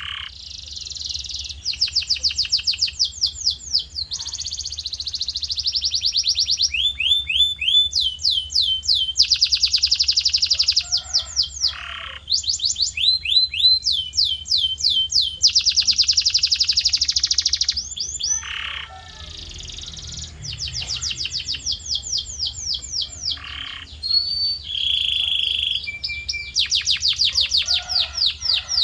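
Male domestic canary singing: rapid trills of repeated high notes, each run held for a second or two before switching to a new note type, with a few short pauses. A faint steady low hum lies underneath.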